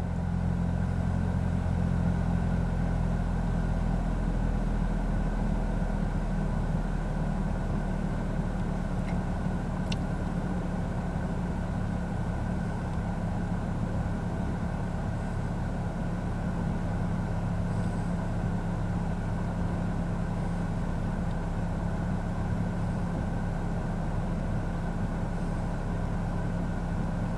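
Toyota Corolla's 1ZZ-FE four-cylinder engine running steadily, heard from inside the cabin.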